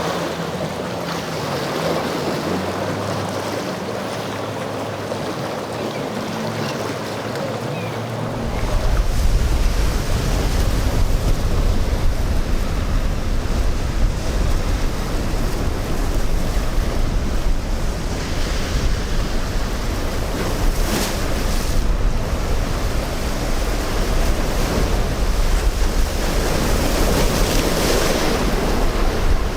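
Rough ocean surf washing through an inlet, with wind on the microphone. A boat engine hums under the surf for the first eight seconds or so. After that, heavy wind rumble on the microphone takes over.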